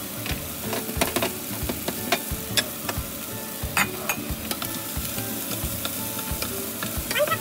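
Stir-frying in a pan: a steady sizzle, broken by irregular clacks and scrapes of a utensil against the pan about every half second.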